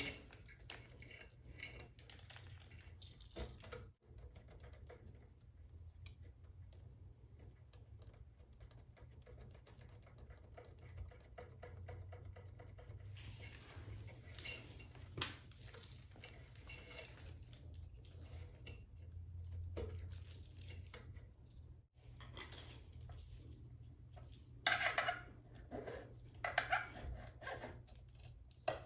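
Faint handling noises of wires being pushed down through an electric scooter's deck: light rubbing and scattered clicks over a low steady hum, with a sharp click about halfway through and a brief run of louder clicks and rustling near the end.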